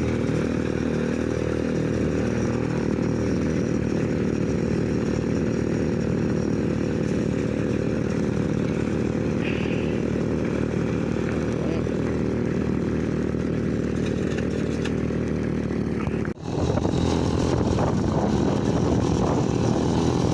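Small petrol engine of a homemade mini bike running steadily as it is ridden. It breaks off for a moment about 16 seconds in, then carries on slightly louder.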